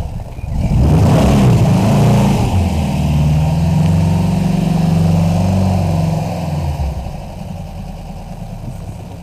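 A homemade open two-seater roadster's engine running as the car reverses, with a burst of revs about a second in, then held steady before dropping back and fading near the end.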